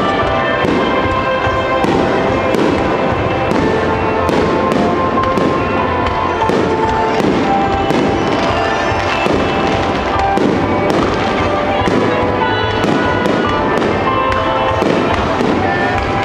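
A star mine fireworks barrage: shells bursting in quick, dense succession with crackling, continuous through the whole stretch, with music playing alongside.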